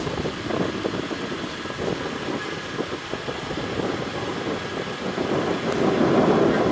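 Jet airliner engines rumbling at a distance during a departure, growing louder about six seconds in.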